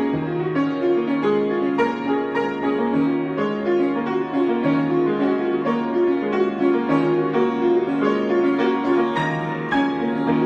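Piano improvisation: a continuous flow of notes and chords, strongest in the middle and lower-middle register.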